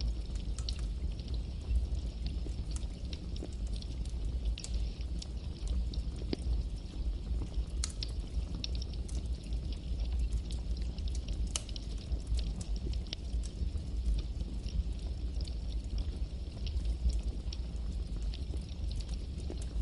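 Campfire crackling: irregular sharp pops and snaps, many a second, over a steady low rumble of the flames.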